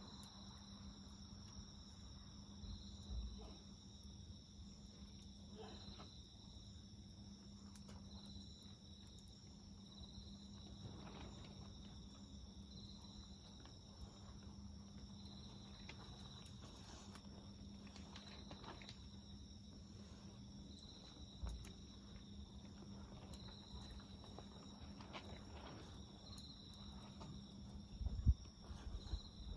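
Insects chirring steadily in a high, continuous trill that swells about once a second, over the faint crackling of a wood fire. A few low thumps come through, the loudest near the end.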